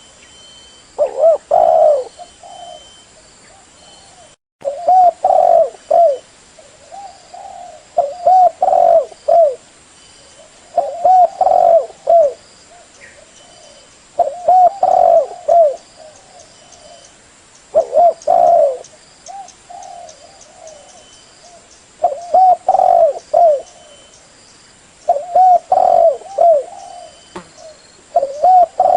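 Spotted dove (tekukur) cooing: a phrase of several low coos, repeated about every three to four seconds, nine times.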